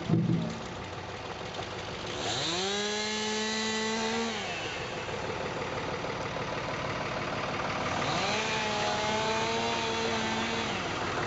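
Chainsaw revving up twice, each time climbing to a steady high speed for about two seconds and then dropping back. A brief low thump comes at the very start.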